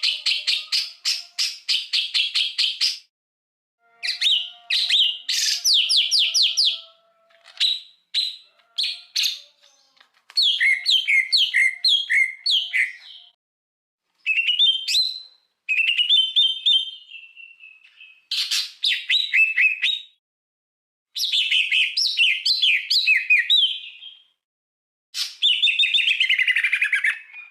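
Recorded songbird song: rapid chattering runs of repeated high notes, trills and whistles in about eight short bursts, each cut off into sudden silence. One whistled phrase near the middle is held longer, and the last burst slides downward.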